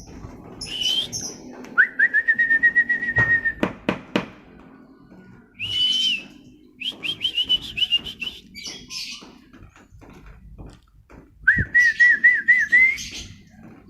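White-rumped shama singing a string of varied whistled phrases with pauses between them. A fast run of repeated notes comes about two seconds in and another near the end, with shorter high chirps and note series in between.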